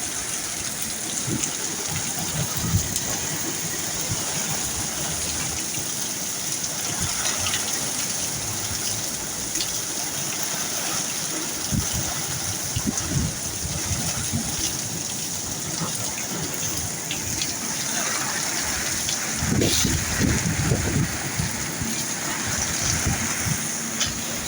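Rain from a storm pouring down steadily, with a short spell of low rumbling about twenty seconds in.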